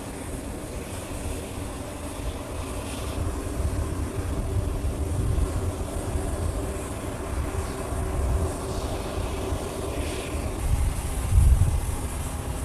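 Aircraft engines running: a steady low rumble with a steady hum, swelling briefly near the end.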